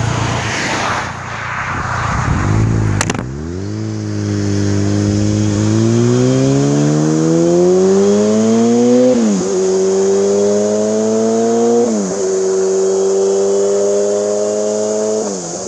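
Yamaha R1 sportbike engine with a Two Brothers exhaust, accelerating through the gears. The revs climb and drop sharply at three upshifts, the first about nine seconds in. Before it, a few seconds of rushing noise end in a sharp click.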